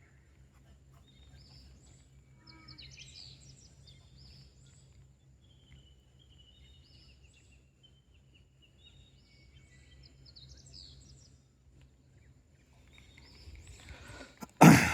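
Wild birds chirping and calling in short whistled phrases over a steady low hum. Near the end comes one sudden loud thump.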